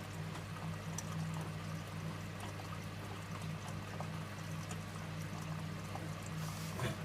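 Water running and splashing inside an Electrolux W455H commercial washing machine, over a steady low machine hum.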